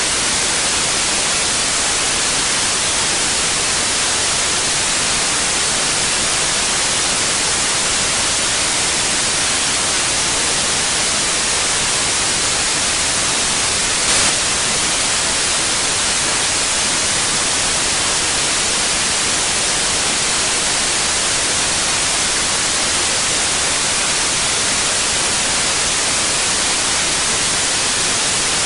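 Steady white noise: an even hiss, strongest toward the high end, with a brief slight jump in level about halfway through.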